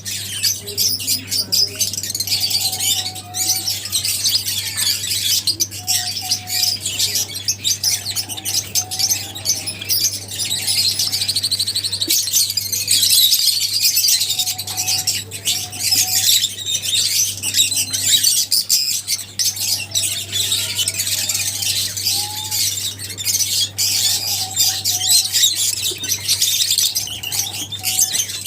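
A flock of lovebirds chattering, a dense, unbroken mass of shrill, rapid chirps with no pauses, over a faint steady low hum.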